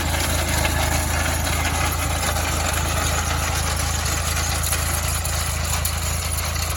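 Tractor engine running steadily under load, driving an old potato digger and its chain through the power take-off.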